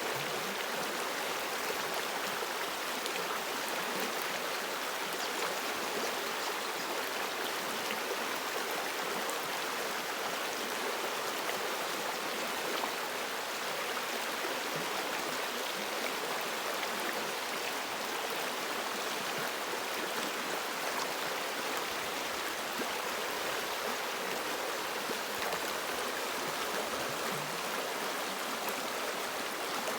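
River water rushing and babbling over rocks, a steady, even wash of sound.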